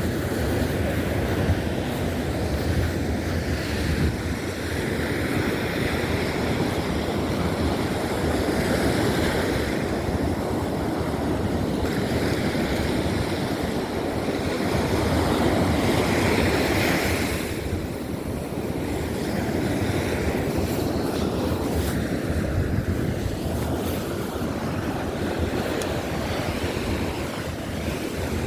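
Baltic Sea waves washing onto the beach, a wave breaking every few seconds, with wind rumbling on the microphone.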